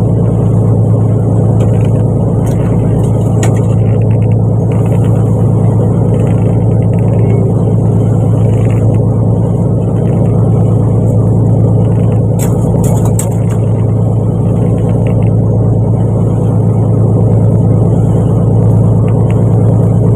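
Fishing boat's engine running with a loud, steady drone, with a few light clicks about two-thirds of the way through.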